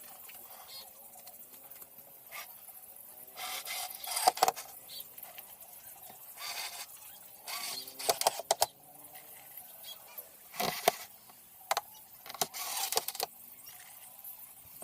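Irregular bursts of noisy scraping with a few sharp knocks, each lasting about half a second to a second, over faint wavering honking calls in the background.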